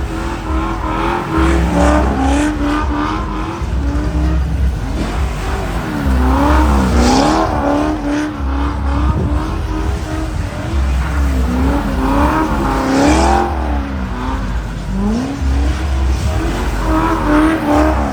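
A car engine revving up and dropping back again and again while the car spins donuts, with tires squealing in short bursts.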